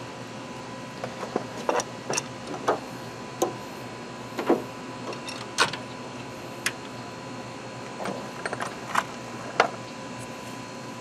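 Irregular clicks and knocks of hand tools and metal hardware being handled, about a dozen sharp taps spread unevenly, over a faint steady hum.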